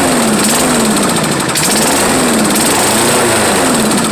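Toro lawn mower's 6.5-horsepower single-cylinder engine running loud at full throttle, its pitch rising and falling about once a second.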